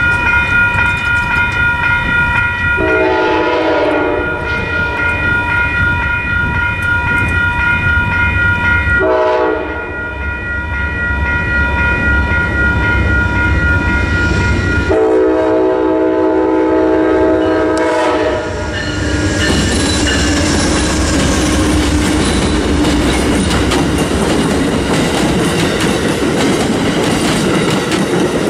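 Grade-crossing warning bells ring steadily while an approaching Amtrak diesel passenger train sounds its horn three times: a long blast about three seconds in, a short one near nine seconds, and a longer one around fifteen seconds. From about nineteen seconds the train passes close by, its rumble and wheels clicking over the rail joints filling the sound.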